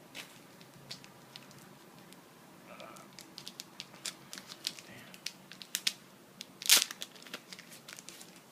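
Plastic packaging and card sleeves crinkling as a stack of trading cards is handled, a run of short sharp crackles and clicks with one louder crackle about two-thirds of the way in.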